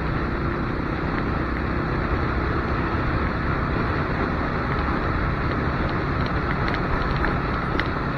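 Motorcycle riding at cruising speed: a steady engine hum under an even rush of wind and road noise.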